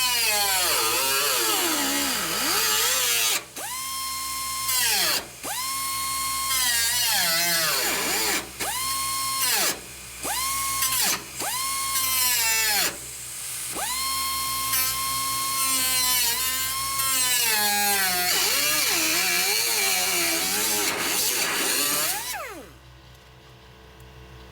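High-speed power grinder on auto body work, triggered in repeated short bursts. Each time it spins up to a steady high whine, then winds down when released. It stops near the end.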